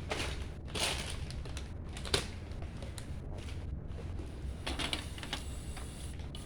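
Plastic Lego bricks clicking and rattling as pieces are handled and sorted, with a few sharp clicks: the loudest just after 2 s, others near 1 s and near 5 s. A steady low hum runs underneath.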